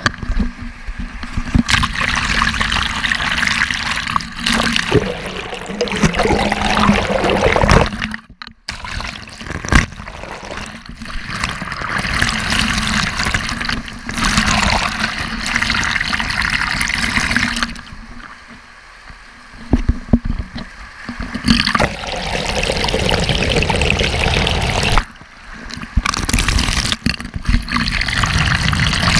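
Waterfall water pouring and splashing close by, a dense steady rush that drops away sharply for a moment a few times.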